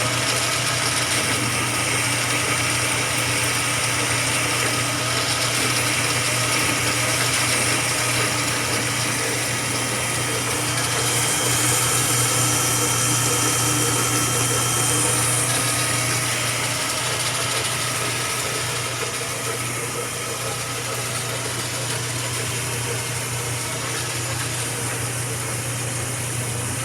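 Jet metal lathe running steadily with a motor hum and a high hiss that swells in the middle and then eases.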